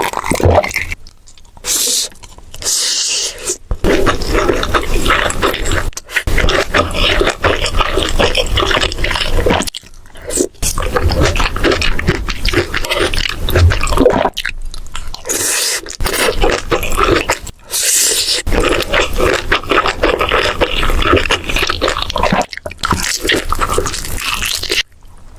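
Close-miked eating: food being bitten and chewed in a run of mouthfuls, with short pauses every few seconds.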